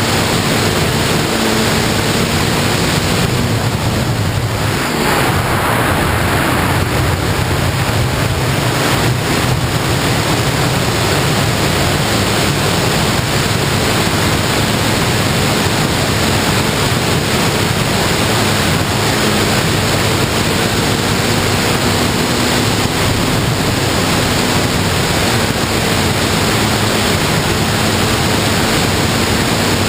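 Steady rush of wind over the microphone of a ZII FPV plane in flight, with its propeller's drone underneath, a steady tone that drifts slightly up and down in pitch.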